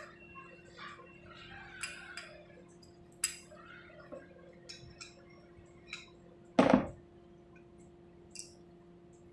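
Small metal parts clinking and tapping as they are handled, with one louder knock about two-thirds of the way through, over a faint steady hum.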